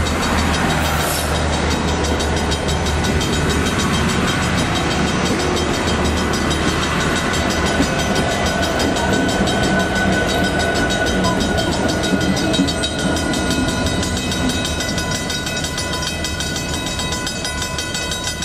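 Union Pacific passenger special of diesel locomotives and passenger cars passing on the track: a steady rumble with the rolling noise of steel wheels on rail, easing slightly near the end.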